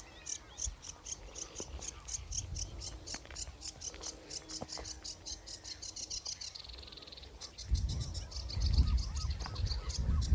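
Reed warbler singing: a fast, chattering run of repeated high notes, several a second, with a brief buzzy trill about two-thirds of the way through. Wind rumbles on the microphone over the last couple of seconds.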